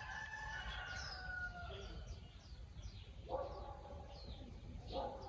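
Birds calling: one long drawn-out call over the first second and a half, then two shorter, lower calls about three and five seconds in. Quick high chirps from small birds repeat throughout, over a steady low rumble.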